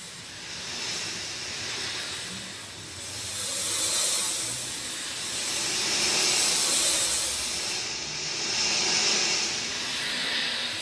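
Rain falling in a steady hiss that swells and eases every two or three seconds.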